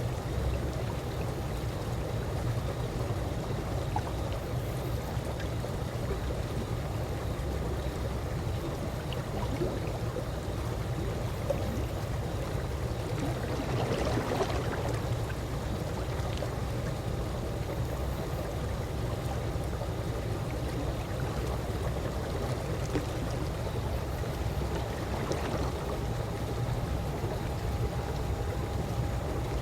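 Calm swimming-pool water moving gently: a steady, low water sound with a faint steady tone underneath and a slightly louder splash about halfway through.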